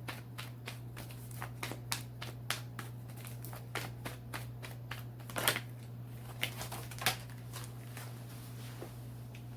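A tarot deck being shuffled by hand to draw clarifying cards: a rapid run of light card flicks and taps, several a second, with a couple of louder slaps around the middle, over a low steady hum.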